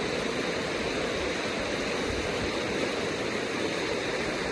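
Small stream running over stones, a steady rush of flowing water.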